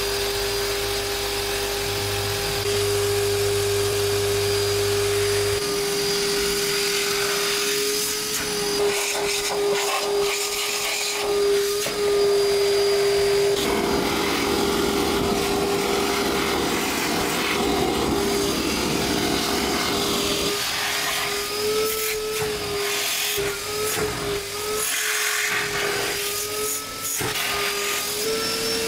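Electric power tool motor running steadily with a constant whine, its pitch dipping and wavering in the second half as the tool is pressed against the work.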